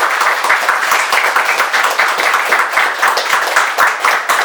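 Audience applauding: many people clapping loudly and steadily in a hall.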